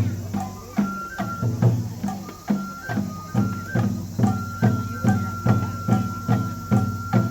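Japanese festival music: a taiko drum beating a steady rhythm, with a loud stroke a little under once a second and lighter strokes between, under a bamboo flute holding a long high note with small steps in pitch.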